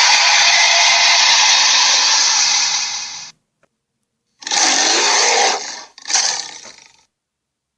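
Harsh, noisy gorilla calls from a sound-effects sequence. One long call fades out about three seconds in, and after a second of dead silence come two shorter calls in quick succession, the second fading away.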